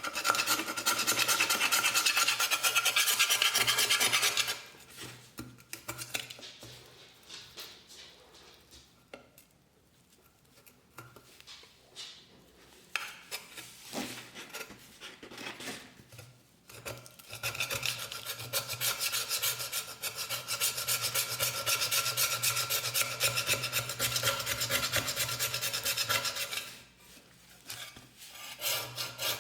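Abrasive scraping and rubbing on a metal cup, as in rust removal, coming in two long steady spells with a quieter, patchy stretch of lighter scrapes between them.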